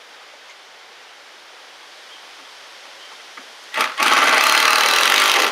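Power drill driving a long screw into wood: a brief blip of the trigger, then a loud steady run of about a second and a half that stops abruptly.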